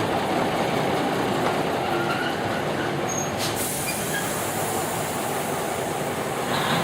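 Railway carriage running along the track, heard from on board: a steady rumble of wheels on rails, with one sharp click about halfway through.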